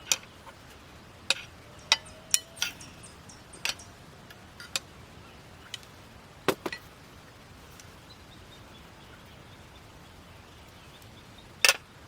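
Sharp clinks and knocks of camping cookware being handled, a dozen or so at uneven intervals, bunched in the first five seconds with a quiet stretch after and one loud clink near the end.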